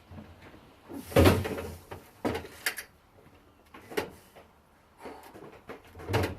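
A series of knocks and clunks: a heavy one about a second in, then lighter ones about two, four and six seconds in.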